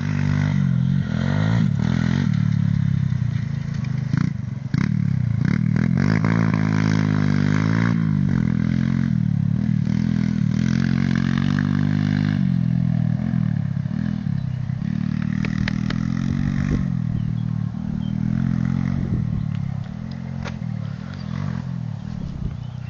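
Small two-stroke engine of a Jawa Mustang moped revving up and down again and again as it is ridden over rough ground, with scattered knocks and rattles. It runs quieter in the last few seconds.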